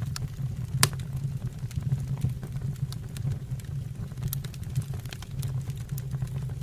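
Fire burning in a fireplace, crackling with scattered irregular pops over a steady low rumble, one sharper pop about a second in.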